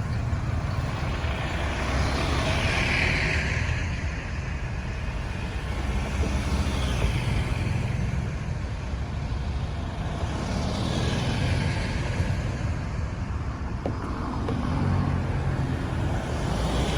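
Road traffic: a steady low engine rumble, with the hiss of tyres and engines swelling and fading several times as vehicles pass.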